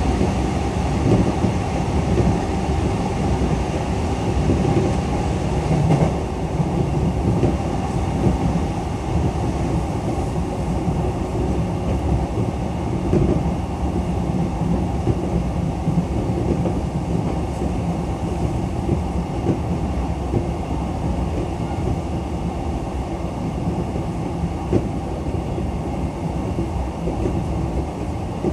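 JR East E233-7000 series electric train running steadily at speed: a continuous rumble of wheels on rail, with a few brief clicks from the track.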